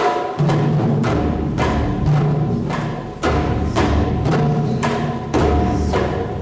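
Japanese taiko drum ensemble playing: rapid sharp strikes with a ringing tone, joined about half a second in by the deep beat of the large drums.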